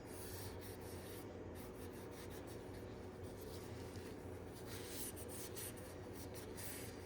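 Repeated scratchy rubbing strokes of uneven length, with a steady low hum underneath.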